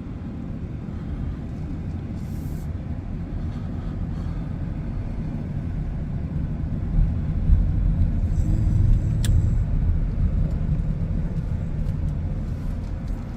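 Car driving slowly on a residential street, its engine and tyre noise a steady low rumble heard from inside the cabin, with a faint sharp tick about nine seconds in.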